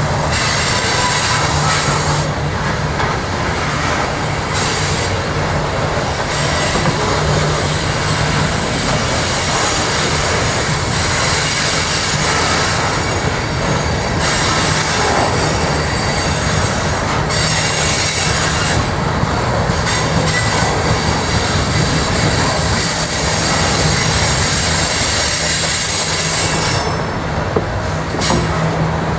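Coal hopper cars of a freight train rolling past close by: a steady rumble of steel wheels on the rails, with high-pitched wheel squeal that comes and goes.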